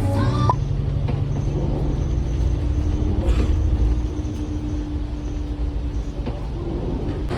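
Low, steady rumble of a moving vehicle, with a faint steady hum over it.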